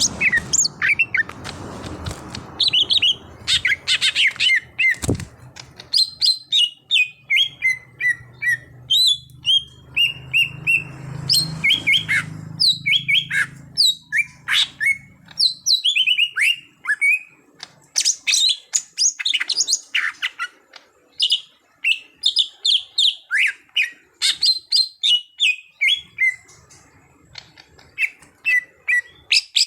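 Cucak hijau (leafbird) singing a long, rapid song of varied chirps and whistled notes, many of them sliding down in pitch, repeated in quick runs. This is the full, continuous singing that keepers call 'gacor'.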